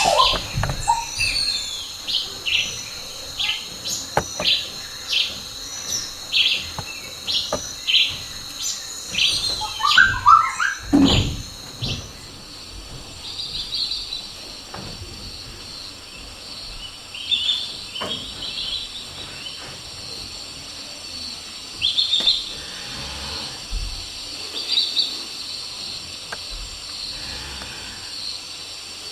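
Short high bird-like chirps, about one a second at first, thinning to scattered chirps after about twelve seconds, over a faint steady high whine.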